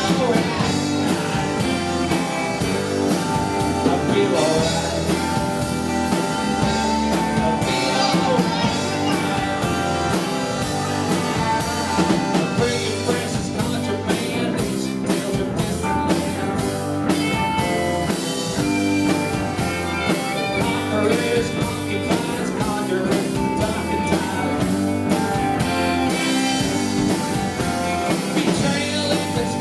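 Live rock band playing a blues-rock song, with electric guitar and drum kit and a steady beat that stands out more clearly about halfway through.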